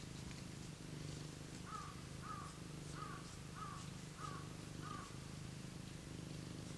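Domestic cat purring steadily, a low rhythmic rumble, content in a warm spot. Near the middle, six short calls from another animal sound about half a second apart.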